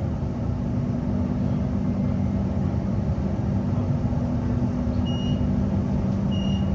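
Cabin noise of a Queensland Rail NGR electric train arriving at a station: a steady low rumble with a constant electrical hum. Near the end a short high beep sounds twice, about a second and a half apart.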